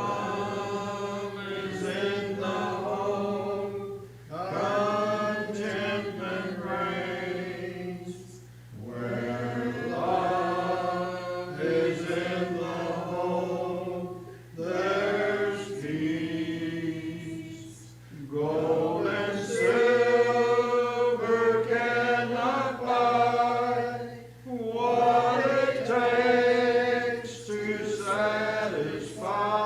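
A church congregation singing a hymn in unaccompanied four-part style, in sung lines broken by short breaths about every four to five seconds, with a steady low hum underneath.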